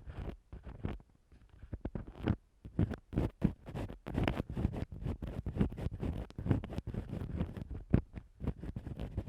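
An ear-cleaning tool scratching and rubbing on a microphone in quick, irregular scraping strokes, starting after a brief pause and getting louder after about two seconds.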